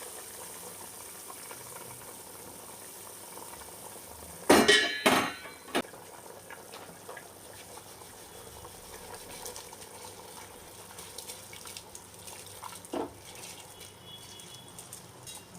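Metal kitchenware clanking against a cooking pot: a loud cluster of clanks with a short ring about four and a half seconds in, a lighter knock near thirteen seconds, over a faint steady hiss of water in the pot.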